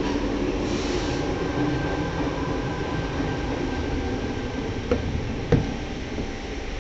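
Running noise inside a C-set double-deck electric train under way: a steady rumble with a faint steady whine. Two sharp knocks come about half a second apart past the middle.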